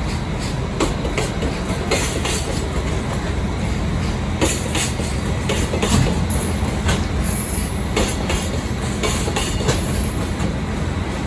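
Train running on the track: a steady low rumble with irregular clicks and knocks from the wheels and rail joints, and a brief high wheel squeal a little past halfway.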